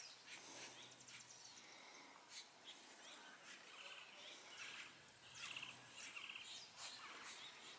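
Faint songbirds chirping, with short calls and a few quick trills scattered throughout.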